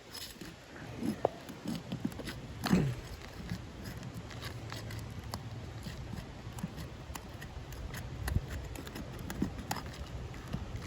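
Asphalt roof shingles being pried loose, their sealant strips breaking free: scattered scrapes and clicks, with a few short squeaks in the first three seconds.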